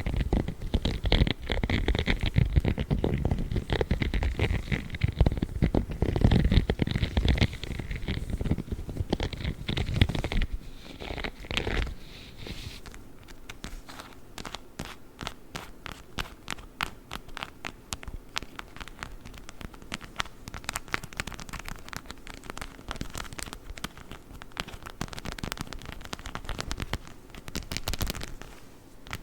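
Spiky rubber glove rubbed and scratched close to the microphone: dense scratchy rubbing with a heavy low rumble. About twelve seconds in it gives way to rapid, closely spaced clicking taps from a plastic witch-finger toy.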